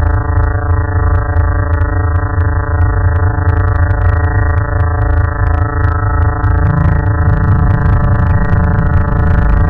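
Electronic space-sound drone: a dense, steady hum of many sustained tones over a heavy low rumble, with faint scattered crackles. The low part of the hum shifts slightly higher about seven seconds in.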